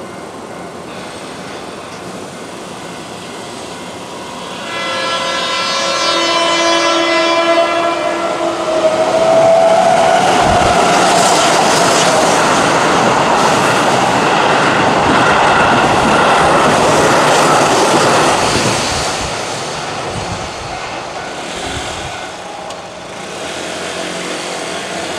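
Keihan 8000 series electric train sounding its horn, a steady pitched blast of a few seconds, then passing through the station at speed with loud rushing wheel and rail noise and a clatter of wheels over rail joints that fades away after a few seconds.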